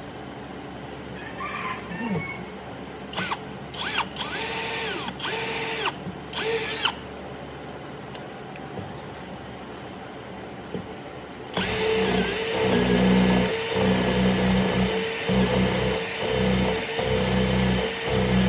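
Handheld power drill triggered in several short bursts, its motor whirring up and dying away each time. About two-thirds of the way through it starts running steadily and loudly.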